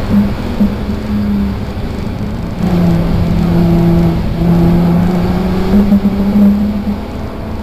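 Volkswagen R32's 3.2-litre VR6 engine running hard at rally pace, heard from inside the car at the rear. Its steady note drops in pitch and gets louder about two and a half seconds in, then climbs again near the end.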